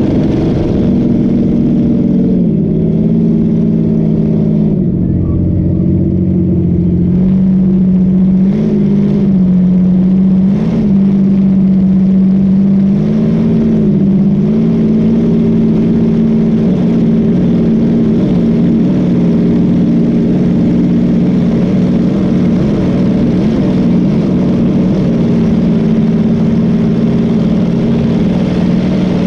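Boat engine running steadily at speed, its pitch stepping down slightly about five seconds in and then drifting gently, under a rush of wind and water noise.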